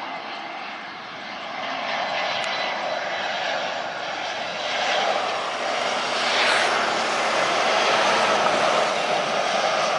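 Jet airliner engines at take-off thrust, a dense roar that grows steadily louder as the aircraft approaches.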